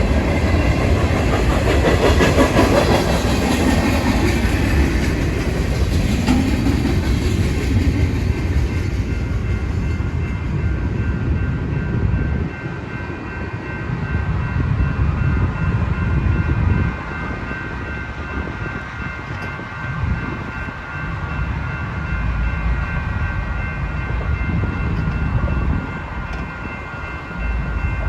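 Freight train rolling past: a heavy rumble with wheels clattering over rail joints, loudest in the first ten seconds. From about ten seconds on, a steady, high, multi-note tone is held over the quieter rumble of the passing cars.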